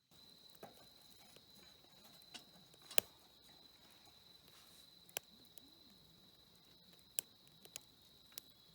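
Crickets or similar insects giving one steady high trill, with a few sharp clicks scattered through it, the loudest about three seconds in.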